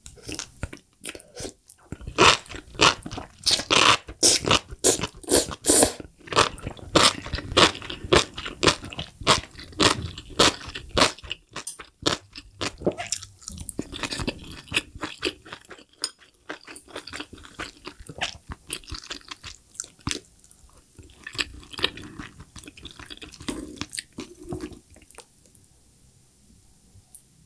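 Close-miked chewing of spicy enoki mushrooms, with dense, loud crunching for about ten seconds, then slower, quieter chewing that dies down near the end.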